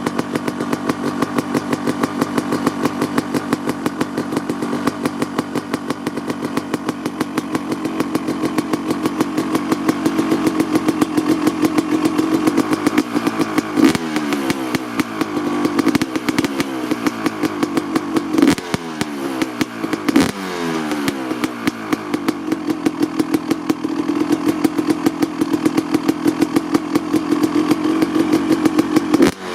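Honda CR250R's single-cylinder 250 cc two-stroke engine idling with a rapid, even pulse while warming up. From about halfway through it is blipped several times, each rev dropping back to idle.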